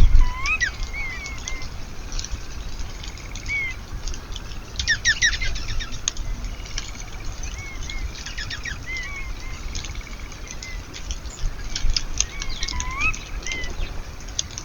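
Small backyard birds chirping in short upslurred notes, with a quick trill about five seconds in and scattered light clicks. A burst of wing flapping comes right at the start.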